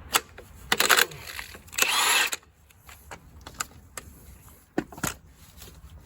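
Tools and parts being handled on a workbench: a few sharp clicks and knocks, plus two short scraping, rustling noises about one and two seconds in.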